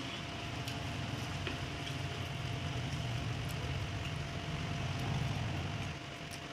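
Low steady rumble of a motor vehicle engine, easing off about six seconds in, with a faint steady tone above it and a few light clicks.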